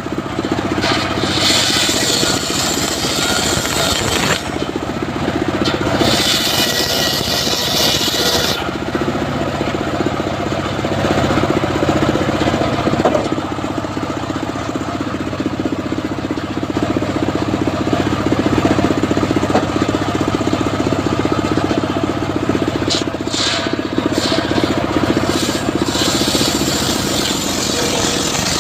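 Engine of a homemade circular sawmill running steadily, with a louder, hissing whine rising several times as the blade cuts through teak wood.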